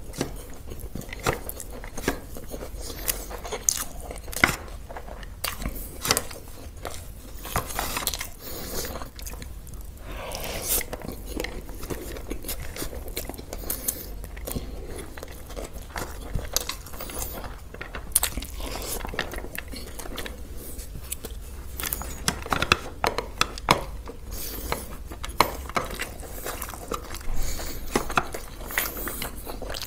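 Close-miked mukbang eating: chewing and crunching of food, with many irregular sharp clicks of bites and now and then a utensil or plate.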